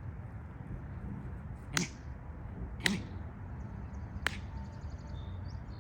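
Three sharp cracks, roughly a second apart, over a steady low background rumble.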